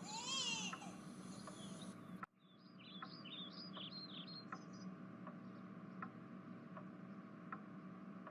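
A baby's wailing cry, cartoon-style, fading out in the first second, then after a brief drop to silence, a run of short falling bird chirps over faint regular ticks about every three-quarters of a second.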